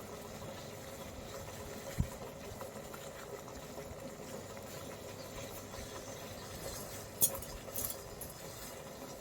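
Steady low background hum with a dull thump about two seconds in and two sharp clinks near the end.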